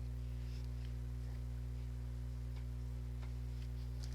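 A steady low electrical hum, with a few faint light clicks scattered through it.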